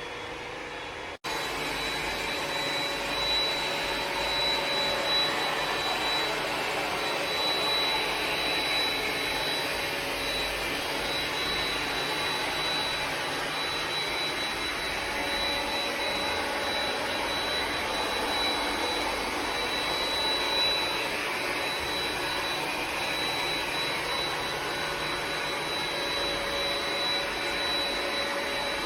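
Ecovacs Deebot X9 Pro Omni robot vacuum running steadily: an even fan hiss with a thin high whine, after a brief gap about a second in.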